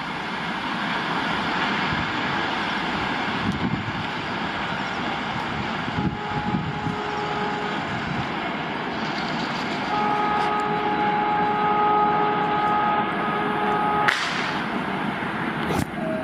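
Passenger train running away down the line, a steady rushing rumble of wheels on rails. From about ten seconds in, a locomotive horn sounds a long steady note that stops with a sharp knock, and a second knock comes near the end.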